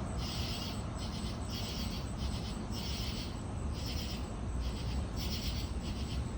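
Night insects calling in a chorus: buzzy, trilled chirps repeating about one or two times a second, over a steady low rumble.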